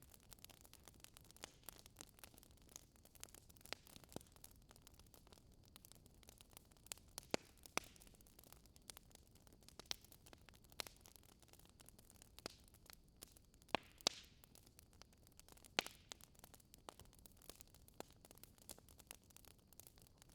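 Fireplace fire crackling faintly: irregular pops and snaps over a soft hiss, with a few sharper pops through the middle.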